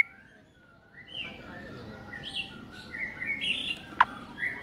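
White-rumped shama (murai batu) singing a varied, rambling run of short chirps and whistled notes after a pause of about a second, with a sharp click near the end.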